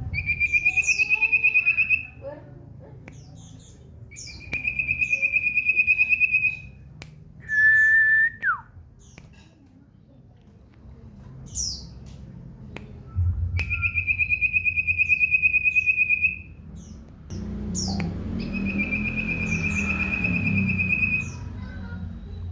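Common iora (cipow) singing: four long, rapid trills on one high note, each lasting about two to four seconds, with a short lower whistle ending in a quick falling slide between the second and third.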